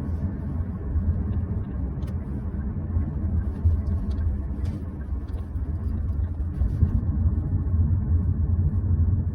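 Steady low road and tyre rumble inside the cabin of a moving 2024 Hyundai Santa Fe hybrid.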